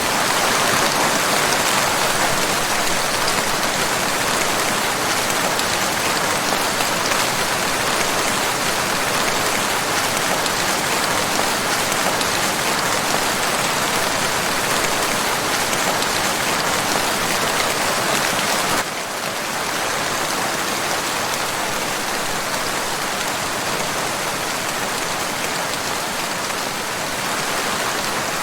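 Steady rain falling, a dense even hiss of many drops. The level drops slightly and suddenly about two-thirds of the way through.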